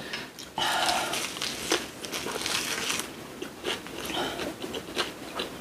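Close-miked eating sounds: a mouthful of seasoned cockles wrapped with saengchae being bitten and chewed, loudest in a stretch starting about half a second in, then softer chewing noises.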